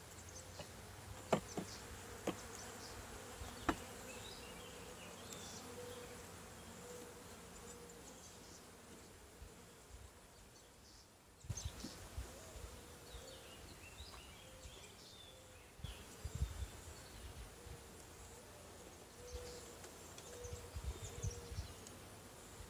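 Honey bees buzzing around an open nuc hive, a faint hum that comes and goes as bees fly past. There are a few sharp clicks in the first few seconds, and some low bumps later on.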